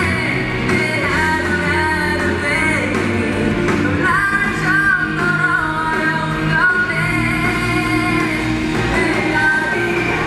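Live band playing a pop-rock song with a voice singing over it.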